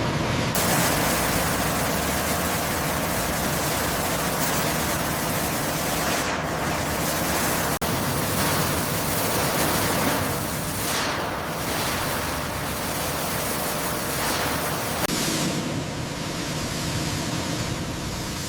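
Steady, loud hissing rush of noise, broken by a momentary dropout about eight seconds in.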